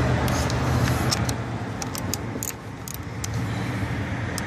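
Light metallic clicks and taps of a tool working the car battery's terminal clamps, over a steady low hum of a vehicle engine running in the background.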